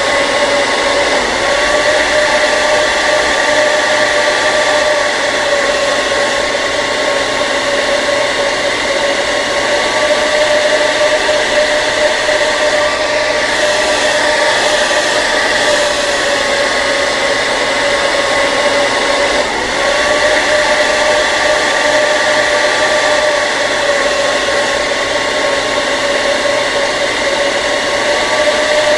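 Hair dryer running steadily: a continuous blowing noise with a steady motor whine.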